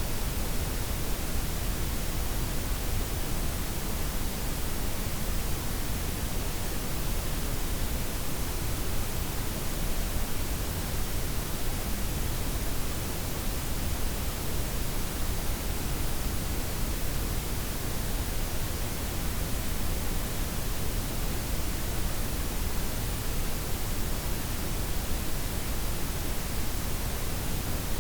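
Layered white, pink and brown noise: a steady, unchanging hiss with its weight in the low end and the top gently rolled off.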